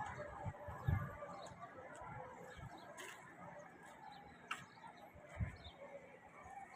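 Faint bird calls: short high chirps, with a few sharp clicks and a couple of soft low thumps.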